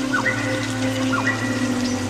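Rain pattering over ambient music with a sustained low drone and a few sliding whistle-like tones.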